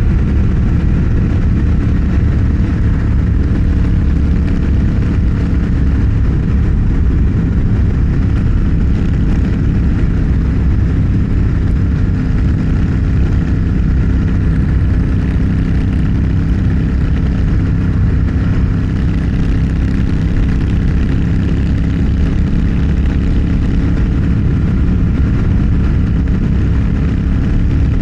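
Motorcycle engine running at a steady cruise, its pitch holding level, with road and wind noise.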